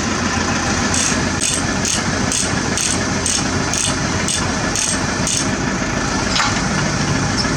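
A heavy diesel engine running steadily. Partway through, a run of about ten short high-pitched pulses sounds at about two a second over some four seconds.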